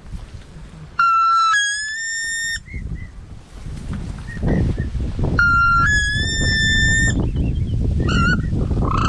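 Two long whistled calls, each stepping up from a lower note to a higher held note, then a few short chirps near the end, over a low rumbling noise.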